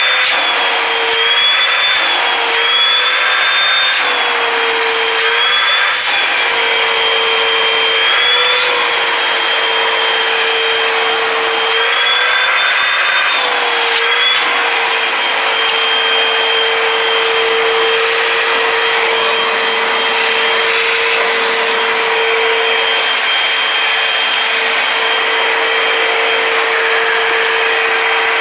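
Eureka AirSpeed Multicyclonic Pet vacuum cleaner running while vacuuming, a steady motor whine over airflow hiss. Its pitch wavers up and down through the first half and then holds steady, with a few sharp clicks along the way.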